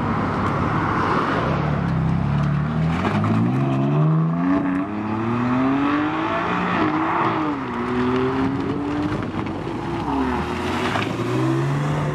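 BMW M3 saloon's twin-turbo straight-six accelerating hard away from a standstill, its engine note climbing in steps as it shifts up through the gears. Near the end another sports car's engine revs up as it pulls away.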